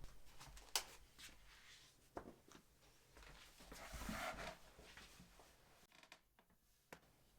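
Faint handling sounds: a few sharp small clicks, the loudest just under a second in, and a short scraping rustle about four seconds in.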